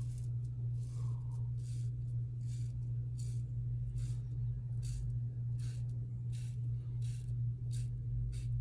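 Safety razor with a Gillette Super Thin blade scraping through four days of beard stubble in short strokes, about one every 0.7 seconds. A steady low hum runs underneath.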